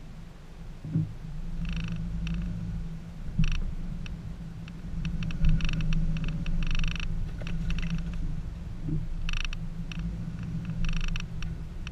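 2014 Subaru Forester's 2.5-litre flat-four engine running at low speed as the SUV crawls over a rough dirt trail, heard from inside the cabin as a steady low hum with a few knocks from bumps. Bursts of high, rapid buzzing come and go over it.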